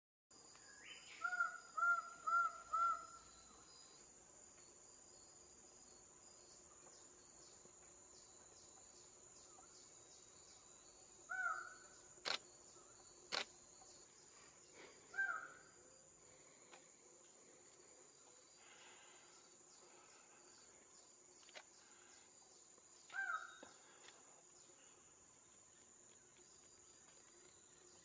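Twelve-wired bird of paradise calling: a quick run of four short calls about a second in, then single calls spaced several seconds apart. Underneath runs the steady high whine of forest insects, and two sharp clicks fall near the middle.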